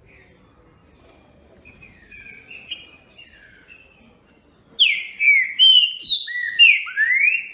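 A songbird singing: soft twittering chirps, then a loud phrase of about seven clear, slurred notes starting near five seconds in, mostly falling in pitch, with the last note rising.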